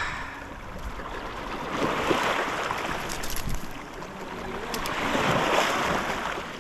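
Sea water sloshing and lapping against the hull of a small boat, a rushing sound that swells twice.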